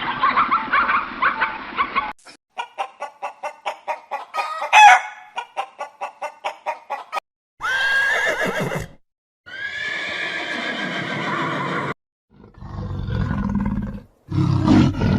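A run of separate animal calls: a horse's whinny ending about two seconds in, then rapid clucking at about four a second with one loud rising cry near the middle, a few more single calls, and a roar starting near the end.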